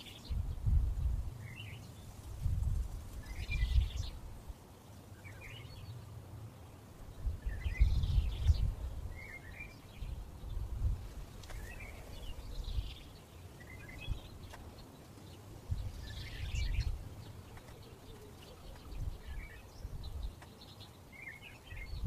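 A small bird chirping over and over, short high calls every second or two, over low rumbling gusts of wind on the microphone that come and go and are the loudest sound.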